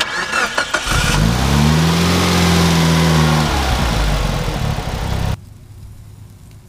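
Mitsubishi Lancer Evolution IX's turbocharged 4G63 inline-four being revved: the pitch rises about a second in, holds high for a couple of seconds, then falls back. The sound cuts off abruptly a little after five seconds in.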